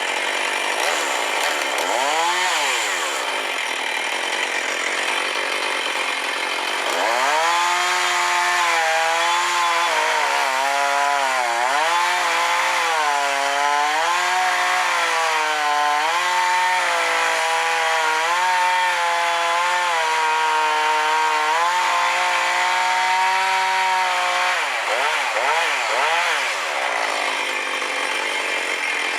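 Chainsaw cutting firewood, running at high revs. Its pitch sags and recovers again and again as the chain bites into the wood, with quick revs up and down near the start and near the end.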